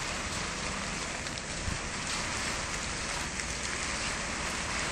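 Steady hiss of rain falling during a thunderstorm, with faint scattered drop ticks.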